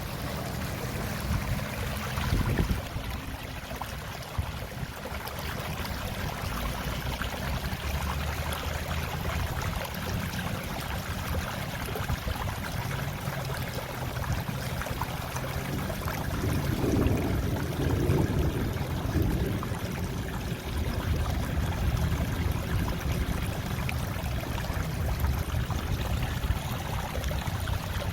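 Rainwater rushing and running steadily after heavy rain, over a low steady hum.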